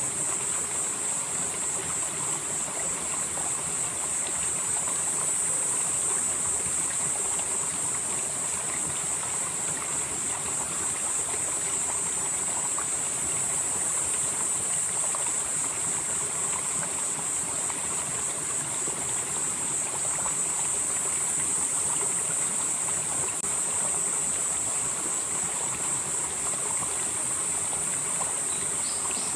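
Valley stream flowing steadily, a continuous rush and babble of water over rocks with a strong, steady high hiss.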